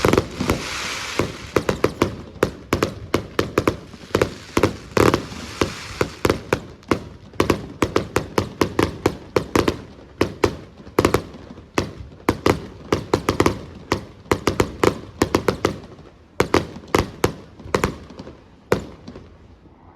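Fireworks show: aerial shells bursting in rapid succession, several sharp bangs a second, with a crackling hiss in the first second.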